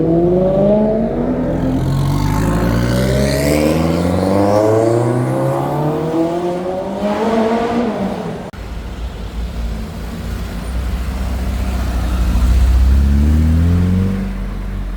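Car engine accelerating hard, its pitch climbing again and again as it pulls through the gears. About eight and a half seconds in the sound cuts to a deeper engine rumble, which revs up once more near the end.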